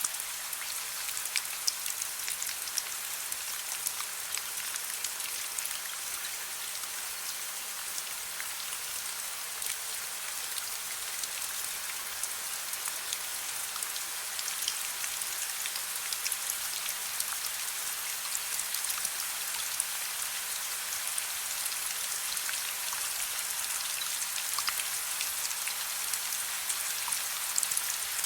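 Steady soft rainfall: an even hiss of falling rain with many separate drops ticking on a surface throughout.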